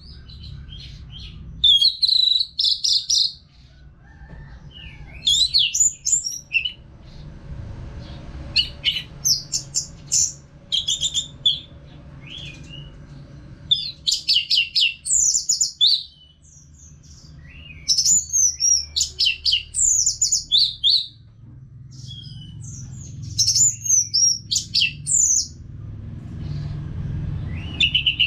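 Orange-headed thrush singing continuously: phrase after phrase of rapid, varied whistled and chattering notes, each lasting a second or two, with short pauses between.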